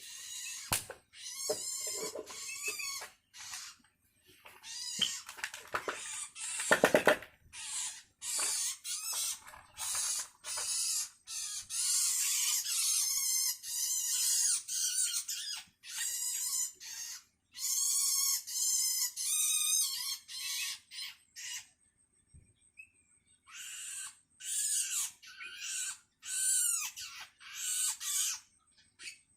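Long-tailed shrike (cendet) chicks giving harsh, raspy begging calls, one after another, with a pause of about two seconds about two-thirds of the way through. These are the hungry calls of nestlings begging for food from their parent.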